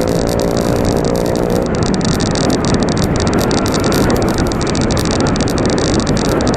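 Steady rushing road noise of passing traffic. At first an engine's even hum sounds over it, and the hum ends about one and a half seconds in.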